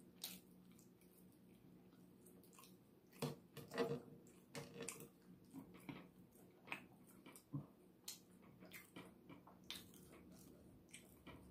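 Faint, close-up mouth sounds of someone chewing rotisserie chicken: irregular wet smacks and clicks.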